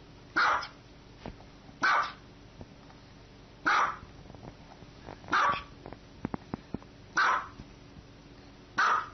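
Small white dog barking: six short, sharp barks, evenly spaced about one every second and a half to two seconds. A few faint clicks come between the fourth and fifth barks.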